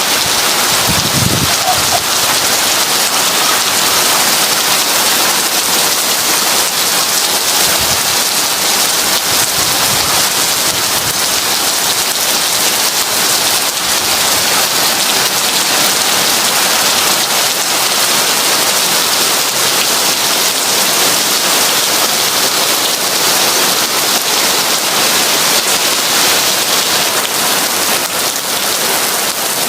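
Heavy rain falling steadily in an even, dense hiss, with a brief low thump about a second in.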